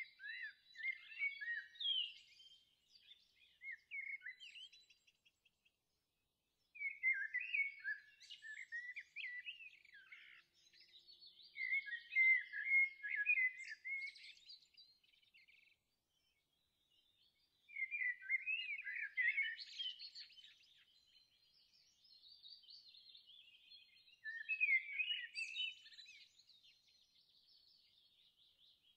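Birdsong: quick, high chirping and warbling notes in four bouts of several seconds each, separated by brief pauses.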